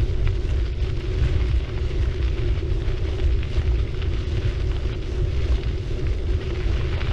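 Riding noise from a moving city bicycle picked up by a mounted action camera: a steady low rumble of wind on the microphone and tyres rolling over the road surface, with a steady hum underneath and scattered light ticks.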